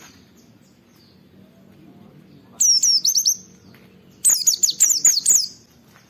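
White-eye (pleci) singing in two bursts of quick, high, down-slurred chirps, a short one about two and a half seconds in and a longer one about a second later.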